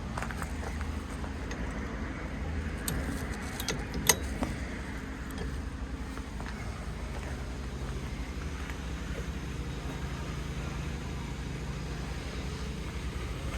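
Steady low background rumble with a few sharp clicks between about three and four and a half seconds in, the loudest about four seconds in.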